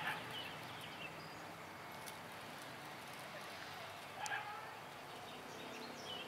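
Quiet outdoor background with a faint steady hiss and a few brief, faint bird chirps, the clearest about four seconds in.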